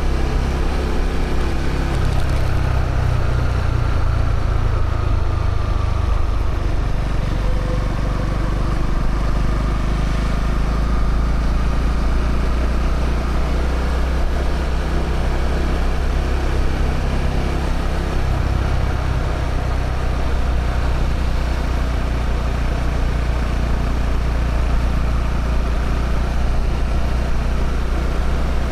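Honda CB125R's single-cylinder 125 cc engine running through its stock exhaust, a steady low note that shifts a few times as the revs change.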